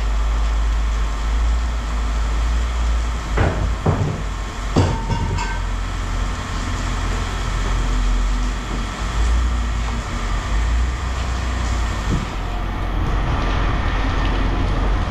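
An engine running steadily with a low rumble, with a few sharp clanks of metal a few seconds in.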